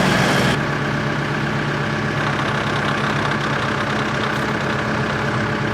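Kubota M7060 tractor's four-cylinder turbo diesel engine idling steadily; about half a second in it drops to a quieter, less hissy running.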